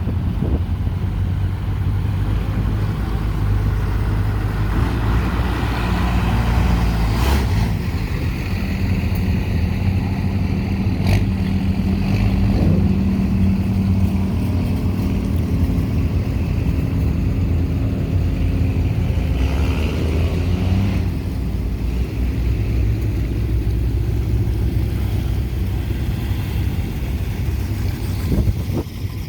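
Car engines running as vehicles drive slowly past one after another, a steady low engine sound whose pitch shifts as each car goes by.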